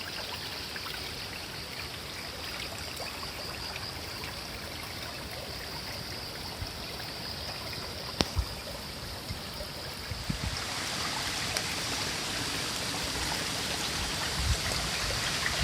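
Steady rushing noise, like running water or wind outdoors, with a few faint knocks midway; it grows louder and brighter about ten seconds in.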